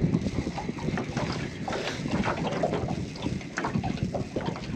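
Wind buffeting the microphone, with water slapping and knocking against the hull of a small aluminium boat.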